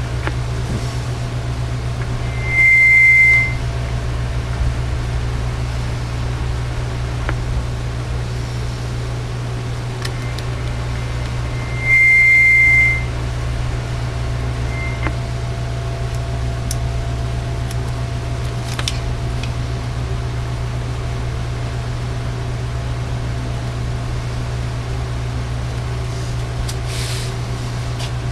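A steady low electrical hum from the radio test bench, broken twice by a loud, high single-pitched electronic beep about a second long: once about three seconds in and again about nine seconds later. A few faint clicks are also heard.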